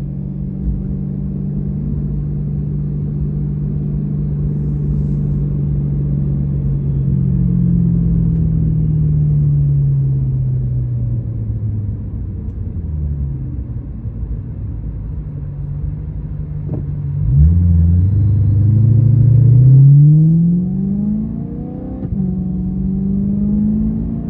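BMW E92 M3's 4.0-litre V8 running through its aftermarket valved exhaust: it cruises steadily, then the revs slowly fall, and about 17 seconds in it accelerates hard with rising pitch, at its loudest. After an upshift the pitch drops and it climbs again near the end.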